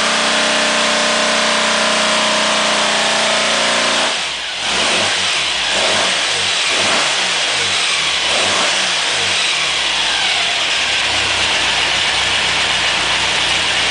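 2275cc air-cooled VW Type 1 stroker engine on a dyno, held at steady revs. About four seconds in the throttle closes and the revs drop. It is blipped up and down a few times, then settles to an even idle.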